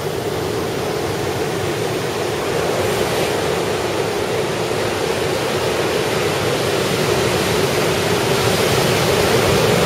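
Ocean surf washing onto the beach: a steady rushing noise of breaking waves, growing slightly louder toward the end.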